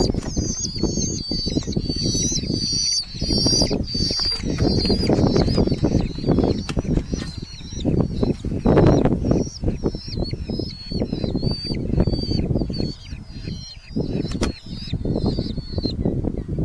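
Red-footed falcon chicks calling in a quick run of short, high, repeated notes, several a second, loudest in the first few seconds, over heavy rustling and thumping of wing flapping.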